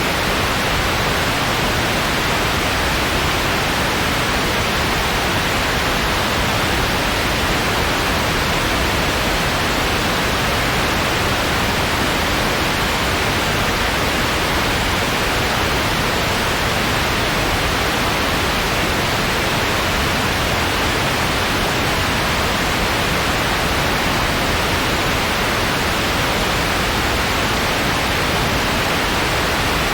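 Steady white noise: an even, unchanging hiss with no crackles or other events.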